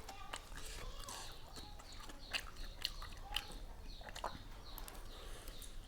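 A person chewing a mouthful of seafood papaya salad close to the microphone: wet mouth sounds with a run of sharp little clicks, a few louder ones in the middle.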